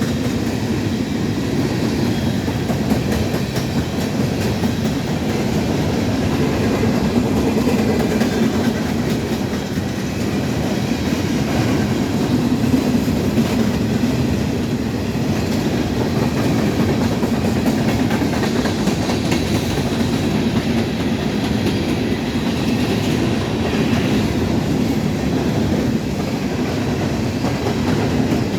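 Empty CSX coal train rolling past steadily, its wheels running on the rails.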